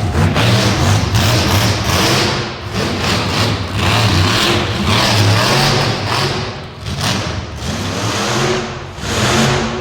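Monster truck engine revving hard in repeated surges, easing off briefly a few times between bursts of throttle.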